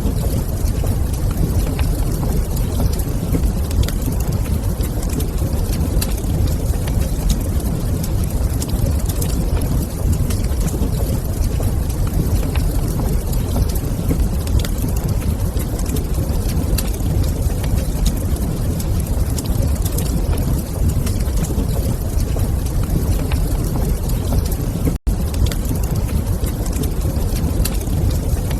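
Wood fire in a fireplace crackling over a steady low rumble of ambient noise, with a momentary break in the sound about 25 seconds in.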